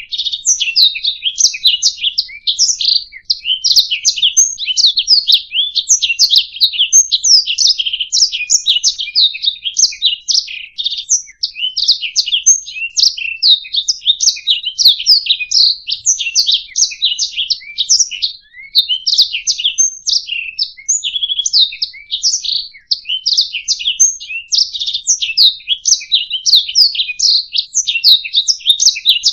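Canary singing a long, unbroken song of rapid chirps, trills and rolling phrases.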